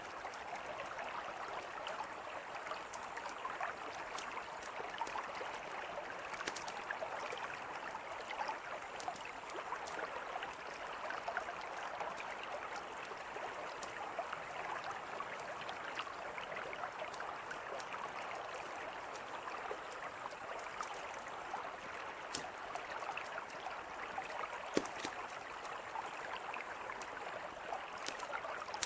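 Mountain river flowing with a steady rush, with a campfire crackling over it in scattered sharp pops, one louder pop near the end.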